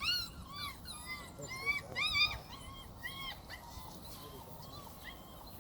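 Young puppies whining and yipping: many short, high-pitched cries overlapping in quick succession, thickest and loudest in the first couple of seconds, then thinning out.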